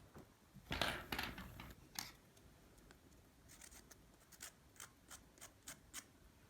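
Handcrafting noises from working the lid material by hand: a short rustling scrape about a second in, one sharp snap, then a run of sharp clicks about three a second.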